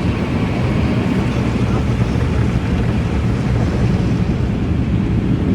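Automatic car wash running over the car, heard from inside the cabin: a steady, deep rumbling wash of machinery and water noise.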